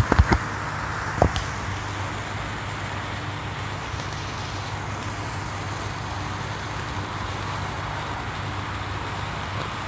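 Six gold bamboo-stick sparklers burning together: a steady fizzing hiss, with a few sharp pops within the first second and a half.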